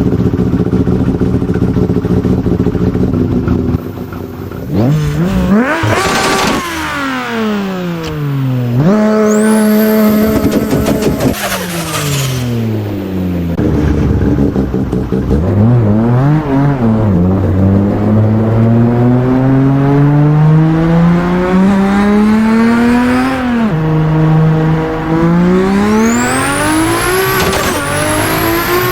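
Nissan Skyline R32 GT-R's turbocharged RB26 straight-six, tuned to about 750 hp, accelerating hard through the gears: the engine pitch climbs and drops at each shift. A high rising turbo whistle comes with boost, and the turbo flutters when the throttle lifts.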